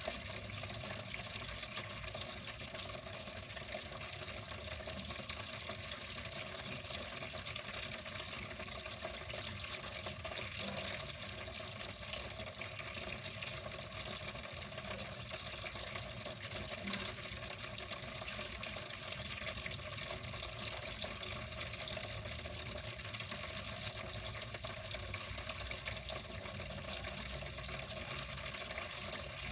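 Water flowing in a steady, unbroken stream.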